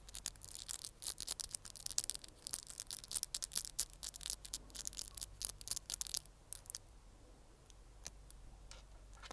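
Close-miked ASMR mouth sounds: a rapid run of small, sharp wet clicks and pops, thinning out after about six and a half seconds to a few faint clicks over low hiss.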